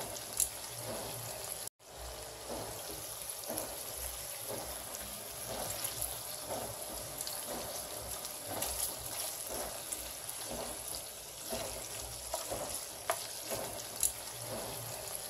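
Shrimp sizzling in hot oil in a nonstick frying pan, with a few sharp clicks of metal tongs against the pan as the pieces are turned. The sizzle cuts out for a moment just before two seconds in.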